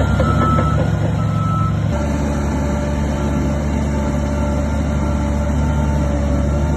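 Reversing alarm beeping on heavy construction equipment over the steady drone of a diesel engine.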